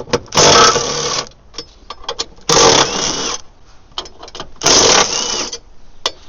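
Cordless power wrench run in three bursts of about a second each, spinning out 13 mm bolts, with small clicks between the bursts.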